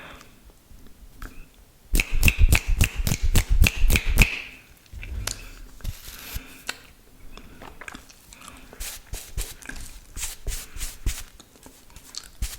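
Wet mouth sounds close to the microphone: tongue and lip clicks and smacks. A dense run of clicks starts about two seconds in and lasts about two seconds, then the clicks come more sparsely.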